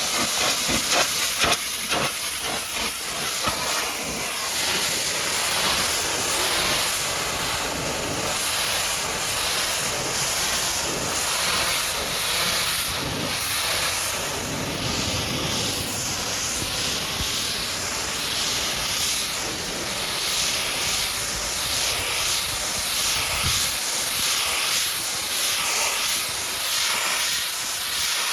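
High-pressure washer jet hissing as it blasts mud off a truck, with spattering ticks in the first couple of seconds. The hiss swells and fades about once a second as the spray sweeps back and forth.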